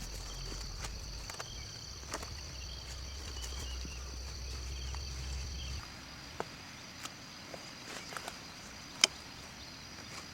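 Insects trilling steadily at a high pitch, with scattered sharp clicks and knocks, the loudest about nine seconds in. A low rumble underneath stops about six seconds in.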